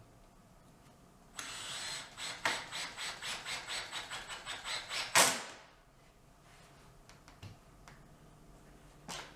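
A tool working on wood: rough, scratchy strokes repeat about three times a second for some four seconds and end in one louder burst.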